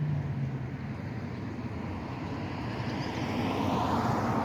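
A motor vehicle passing, its noise swelling over the last couple of seconds and then beginning to ease, over a steady low engine hum.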